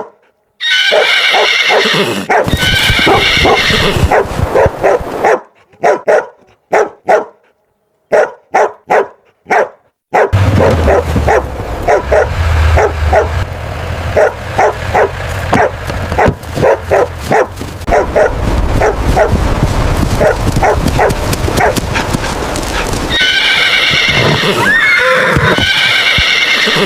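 A horse whinnying several times in the first few seconds and again near the end. In between come spaced knocks, then a long run of rapid knocking over a low rumble.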